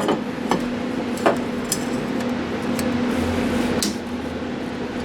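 A few short, light metallic clinks and taps from metal parts and tools being handled on a work surface, over a steady hum.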